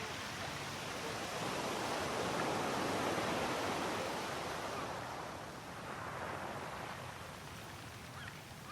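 Sea waves washing ashore: one wave swells to a peak about three seconds in and draws back, then a smaller wave follows.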